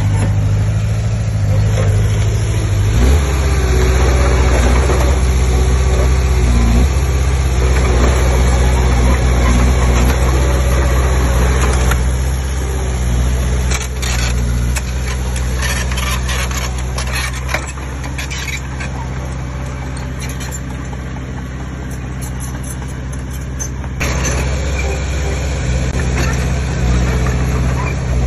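Heavy earthmoving machinery's diesel engine running steadily under load, its pitch shifting about three seconds in. Clattering knocks come through the middle.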